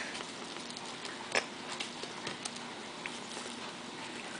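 Scattered light clicks and taps as toothpicks and marshmallow Peeps are handled, with about half a dozen small ticks spread irregularly over a few seconds.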